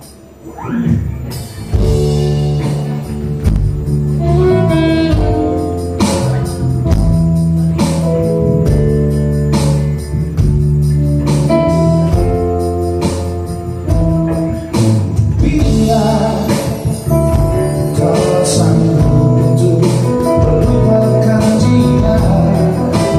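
A live band starts a song about a second in and plays on with a steady beat: guitar, bass and drums, with singing.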